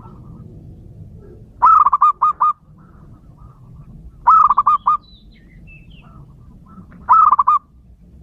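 Male zebra dove cooing: three phrases of quick, repeated staccato coos a few seconds apart. A fainter, higher chirping from another bird comes between the second and third phrase.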